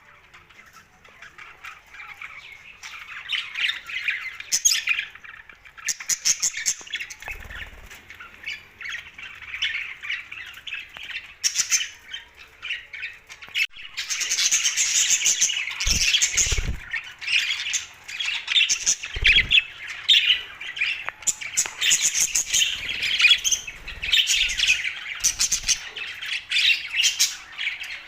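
A group of budgerigars chattering and squawking nonstop, many short overlapping calls, building up over the first few seconds. A few dull thumps come in past the middle.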